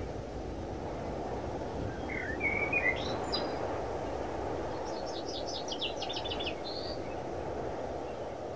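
A bird singing: a short chirping phrase about two seconds in, then a fast trill of repeated high notes around five to seven seconds in, over a steady low background rush.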